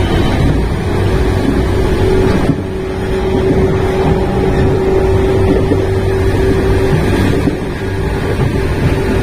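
Running noise of a JR West 115 series 3000-subseries electric train heard through a fully open window: DC traction motors and steel wheels on rail with rail-joint clatter. The noise eases a little about two and a half seconds in, and a steady hum holds from there until near the end.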